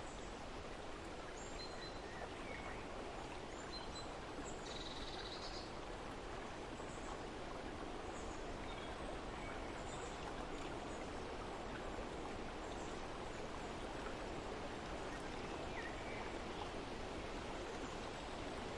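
Steady outdoor ambience, an even rushing noise, with small birds chirping now and then; the most noticeable is a short high trill about five seconds in.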